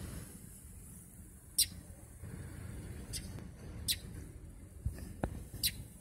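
Short, high-pitched bird chirps, four of them about a second apart, over the low steady rumble of a car's interior.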